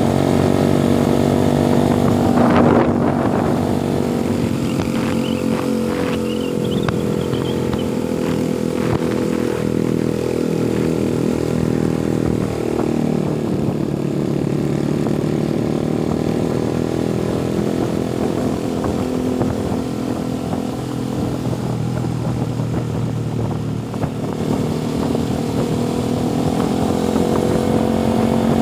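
Motorcycle engine running while under way, its pitch rising and falling as the speed changes, with a brief surge about three seconds in.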